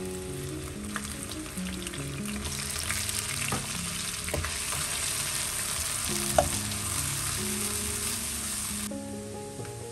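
Chopped shallots sizzling in hot oil in a nonstick wok, stirred with a silicone spatula; the sizzle swells a couple of seconds in and cuts off suddenly near the end. One sharp knock of the spatula against the pan about six seconds in.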